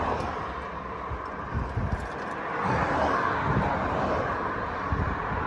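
Steady rush of motorway traffic with wind on the microphone, and a few light clicks about two seconds in.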